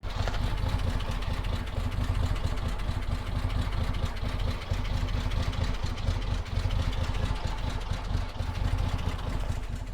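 Engine of a 1952 International cab-over truck idling steadily, with an even rapid firing pulse.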